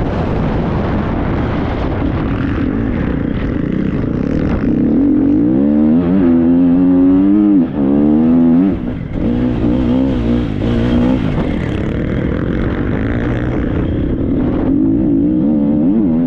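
Triumph 250 motocross bike's four-stroke single-cylinder engine under riding, revving up and down in rises and falls about five to nine seconds in and again near the end. Heavy wind noise on the microphone runs under it.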